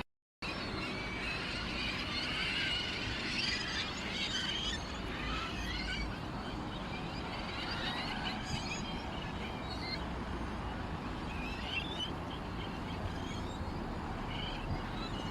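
Many small birds chirping and twittering at once, a busy flock of overlapping short calls, after a brief cut-out to silence at the very start.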